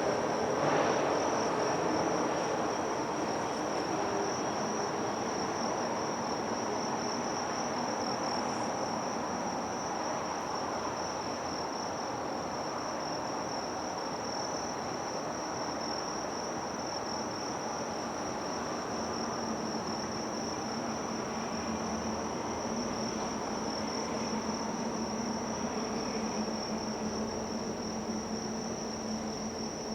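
Insects trilling steadily at one high pitch, over a haze of distant city rumble. A louder passing noise, likely a train, fades out in the first couple of seconds.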